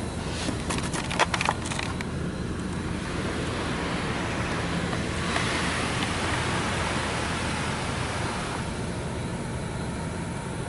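Touchless car wash spray nozzles hissing as they spray the vehicle, heard from inside the cabin: a few sharp clicks early on, then the spray swells, holds for a few seconds and eases off.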